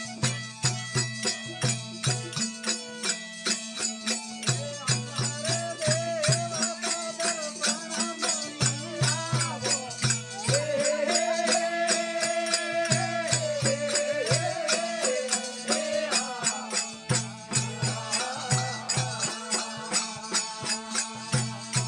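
Rajasthani devotional folk music: a steady drone under a regular beat of drum strokes and jingling small cymbals, with a wavering melody line through the middle.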